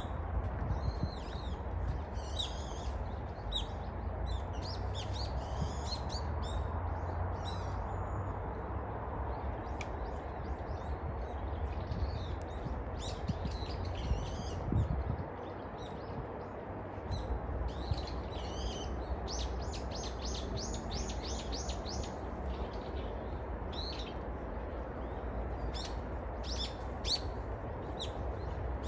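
Small birds chirping and calling in short high notes throughout, with one fast run of about nine notes around twenty seconds in. A steady low rumble runs underneath.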